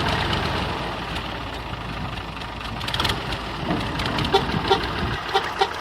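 Diesel engine of a heavy vehicle running steadily during a tractor recovery of a stuck dumper truck, with about four short, sharp pitched blips in the last second and a half.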